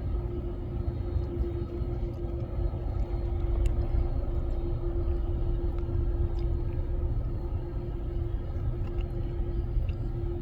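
Aircraft engines running with a steady low rumble and one steady droning tone.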